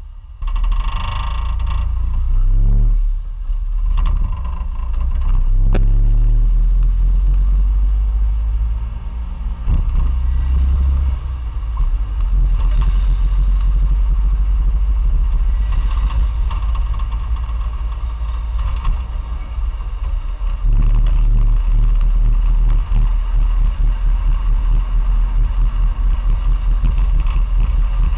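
Classic Fiat 500's air-cooled two-cylinder engine under way. In the first few seconds the revs climb and fall back several times through the gear changes, then it runs steadily at speed.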